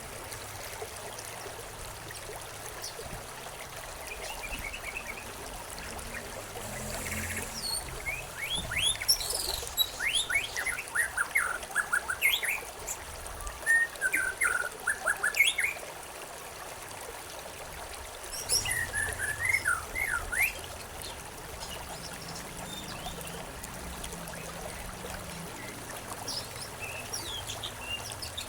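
Songbirds chirping over a steady trickling stream. The birds call in quick bursts of short rising and falling chirps, a long flurry from about a quarter of the way in to past halfway, a shorter one soon after, and a few faint chirps near the end.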